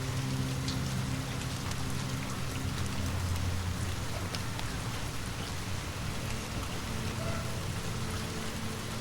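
Steady rain falling, with scattered faint sharp clicks and a low steady hum underneath.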